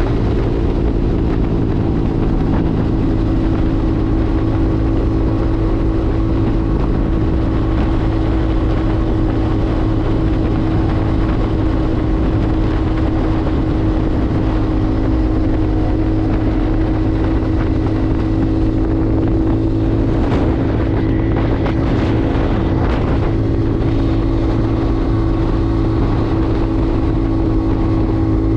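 Motorcycle engine running steadily at an even pitch while riding at a constant speed.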